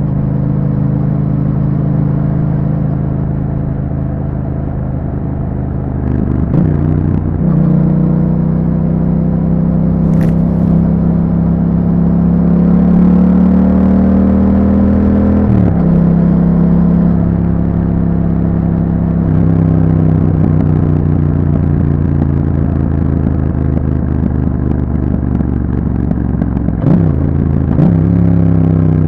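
A 2021 Yamaha MT-07's 689 cc parallel-twin engine running under way through an Akrapovic exhaust fitted with a YAHOM dB killer. The note climbs in pitch as the bike pulls from about seven seconds in, and breaks briefly at gear changes about six, fifteen and twenty-seven seconds in.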